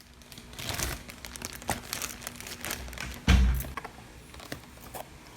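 Irregular crinkling and crackling handling sounds, with one heavy thump a little past the middle, over faint background music.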